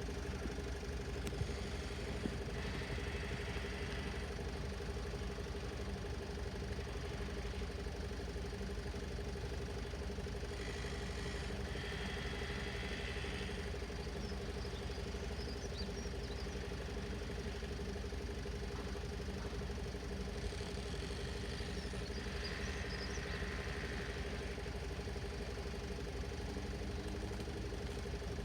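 An engine idling steadily, a constant low rumble with a steady hum. Three times a fainter, higher sound rises over it for two or three seconds.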